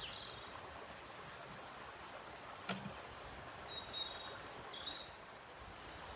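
Outdoor woodland ambience: a steady soft hiss with a few short, high bird chirps and a single sharp knock about two and a half seconds in.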